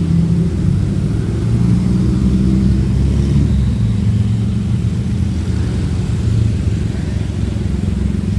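A motor vehicle engine running close by, a steady low rumble whose pitch shifts slightly now and then.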